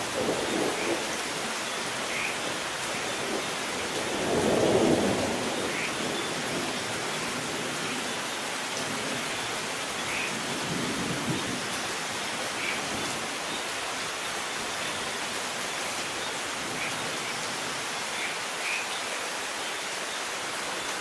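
Steady heavy rain with rolling thunder, the loudest rumble about four seconds in and fainter ones at the start and around eleven seconds.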